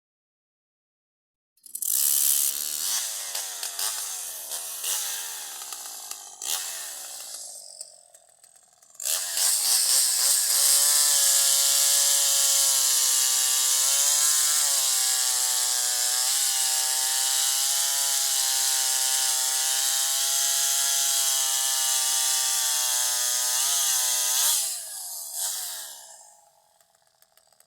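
Homelite 2100S two-stroke chainsaw starting up about two seconds in, running unevenly and dying away. It starts again about nine seconds in, revs up and is held at high revs, steady with a couple of brief dips, then winds down and stops near the end.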